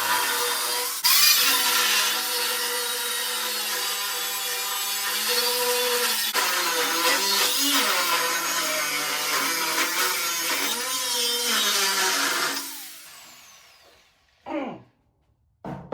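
Angle grinder with a new disc grinding out welds on a steel tractor frame, its pitch dipping and recovering as the disc bites into the metal. Near the end it winds down and stops, followed by two short sweeping sounds.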